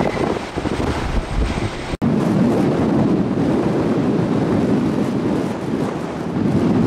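Strong gusting wind buffeting the microphone. About two seconds in, an abrupt cut is followed by a steadier rushing noise with less low rumble.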